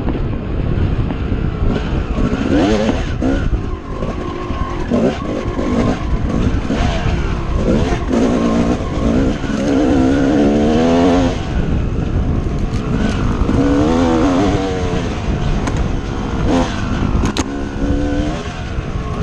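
Dirt bike engine revving up and down repeatedly as the bike is ridden, with a heavy rumble of wind noise under it.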